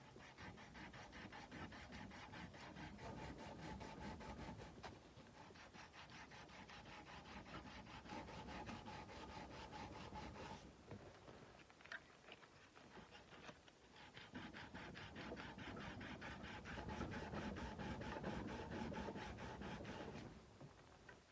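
Sandpaper rubbed back and forth by hand on the steel blade of a Nepalese kukri in quick, even strokes. It pauses briefly twice around the middle and stops about a second before the end.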